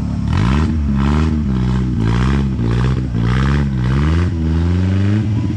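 Off-road vehicle engine revving up and dropping back about five times in quick succession, as it is worked over rough ground.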